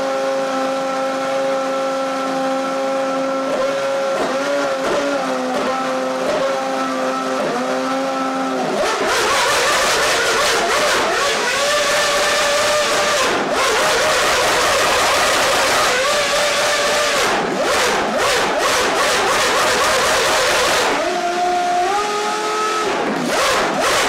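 Formula One racing engine running at a steady high-pitched idle, blipped several times about four seconds in. From about nine seconds in it revs hard, rising and falling in pitch with sharp crackles, then drops back and is blipped up again near the end.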